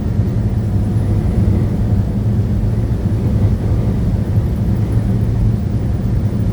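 Steady low drone of a truck's engine and tyres on the road, heard from inside the cab while cruising at a constant speed.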